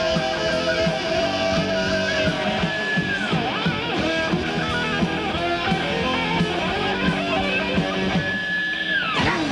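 Metal band playing an instrumental passage: an electric guitar lead holds long notes over bass and drums, twice sliding a high held note down in pitch.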